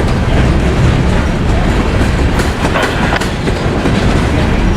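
Freight train cars rolling past close by: a loud, steady rumble, with the wheels clicking and clattering over rail joints at irregular intervals.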